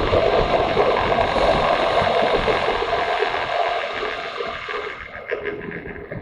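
Motorcycle riding on a mountain pass road: a steady rush of wind over the microphone with the engine running underneath, growing quieter over the last two seconds.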